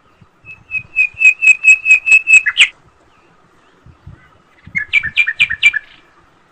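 A bird calling: a quick, even series of about ten loud chirps, the last one louder, then after a two-second pause a shorter series of about six.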